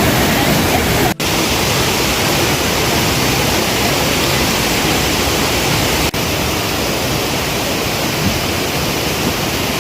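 Rushing creek water: a loud, even hiss with no clear pitch, interrupted by two very brief dropouts about a second in and about six seconds in.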